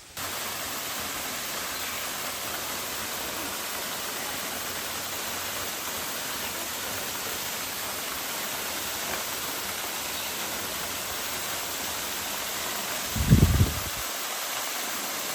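Waterfall rushing: a steady, even wash of falling water. Near the end, a brief low thump is the loudest moment.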